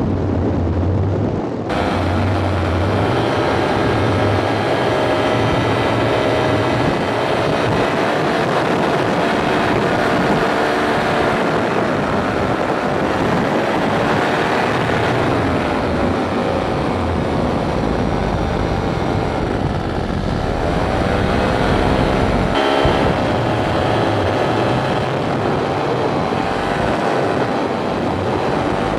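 Flat Top paramotor engine and propeller running steadily in flight, the engine's pitch rising and falling a few times.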